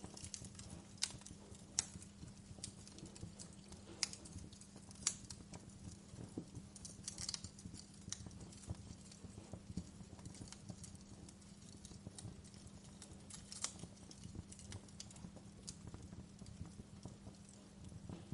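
Fire crackling, with irregular sharp pops and snaps over a steady low hum; a few pops stand out louder, the strongest in the first five seconds.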